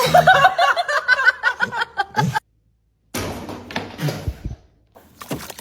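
A person laughing in quick, high-pitched repeated bursts, which stops abruptly. After a moment of silence, a different scene begins with indistinct noise.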